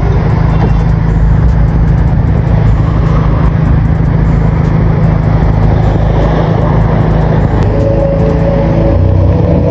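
Audi A5's exhaust, fitted with dual HKS boosters, running steadily with the engine on. Music comes in near the end.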